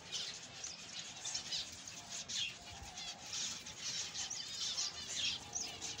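Small birds chirping over and over in quick, high, short calls.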